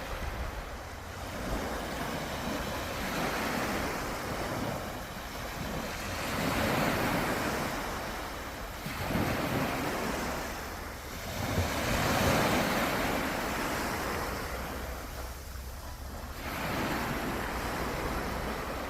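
Sea surf breaking and washing up the shore, swelling and fading about every three to four seconds. A steady low wind rumble on the microphone runs underneath.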